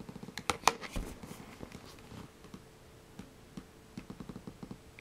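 Handling noise from a cordless phone handset being held and shifted against a meter: a quick run of clicks and knocks in the first second, then scattered light taps, over a faint steady hum.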